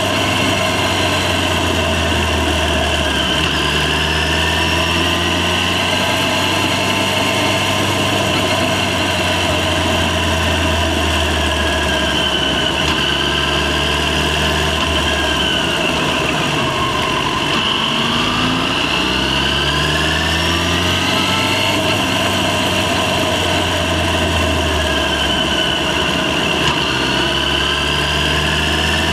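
Yamaha FZ6's 600 cc inline-four engine running under way. Its pitch rises and falls several times with throttle and gear changes, with a deeper drop and climb about two-thirds of the way through.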